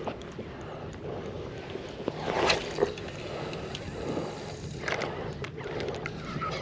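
Water lapping and splashing against a pedal-drive kayak's hull as it moves, with wind buffeting the microphone and a few knocks and splashes about two and a half seconds in.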